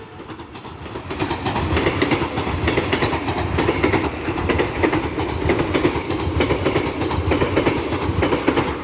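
ЭП2Д electric train running at speed, its wheels clattering rapidly over the rails, getting louder about a second in.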